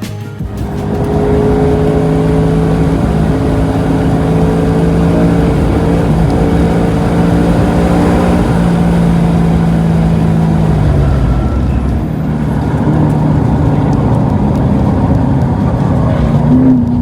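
Car engine running steadily under load, its pitch holding for about ten seconds, then dropping, and starting to rise again near the end.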